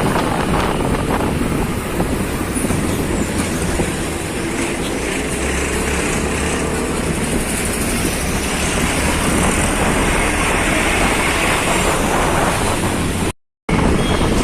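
Steady road and wind noise from a moving motorcycle, the rush of riding in traffic, broken by a short total dropout near the end.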